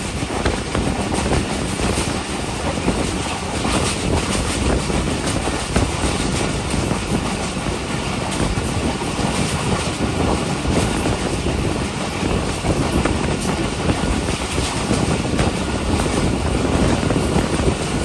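Moving passenger train heard from an open coach window: the steady rumble of wheels running on the rails, mixed with rushing air.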